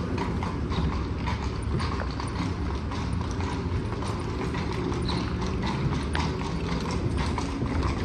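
Carriage horse's hooves clip-clopping steadily on the street as it pulls the carriage along, over the low rumble of the rolling carriage.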